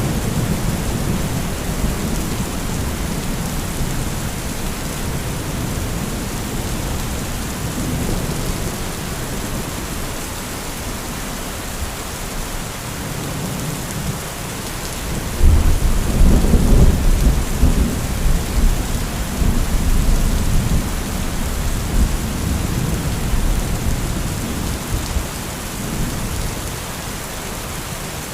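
Heavy rain falling steadily through a thunderstorm. About halfway, a loud peal of thunder breaks in and rumbles for several seconds before dying back under the rain.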